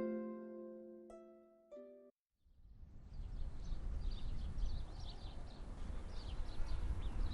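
Harp music: a few plucked notes ring and fade over the first two seconds, then stop. After a brief silence, outdoor ambience starts, with a low rumble and faint high bird chirps repeating.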